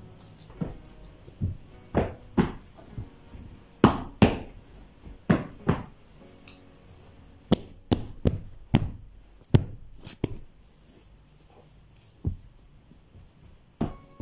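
A series of sharp knocks and thuds, about fifteen, coming irregularly with the loudest bunched near the middle.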